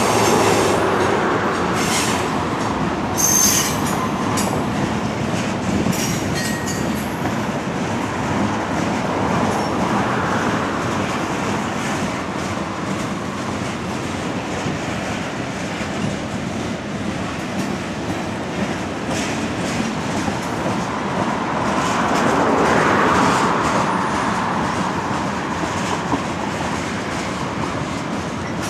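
Freight cars of a mixed freight train rolling past, steel wheels clacking over the rail with a steady rumble that swells and eases as cars go by. There are a few short, high wheel squeals in the first several seconds.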